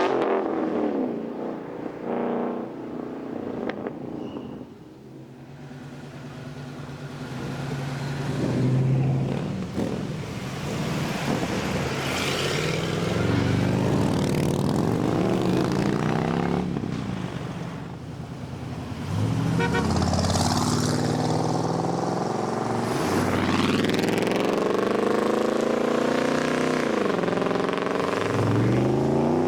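Several cars accelerating hard away one after another, their engines revving up and dropping in pitch between rises, with loud exhausts.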